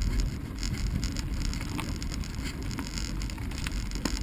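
Bicycle rolling along a dirt trail, with a steady low rumble of wind buffeting the microphone and tyre noise, and a few faint clicks and rattles from the bike.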